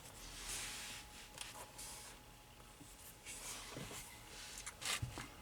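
Quiet car cabin: faint rustling and a few soft clicks, more of them near the end, over a faint steady hum.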